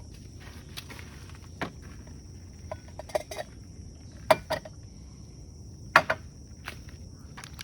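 Camping gear and cookware being handled: scattered knocks and metallic clinks, about seven in all, the loudest about four and six seconds in. Under them runs a steady high-pitched insect drone.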